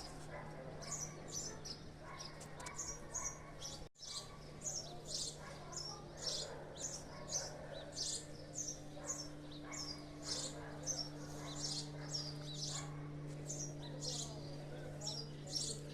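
Small birds chirping over and over, short high calls about twice a second, over a steady low hum. The sound drops out for a moment about four seconds in.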